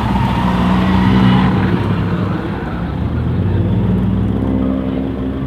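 Rally car engine running close by at moderate revs, fairly steady in pitch, easing slightly toward the end.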